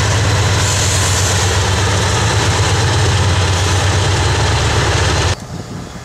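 A diesel freight locomotive passes close by, its engine giving a loud, steady low drone over the rumble of the train rolling on the rails as coal hopper cars follow. About five seconds in the sound cuts off abruptly to much quieter outdoor noise with some wind.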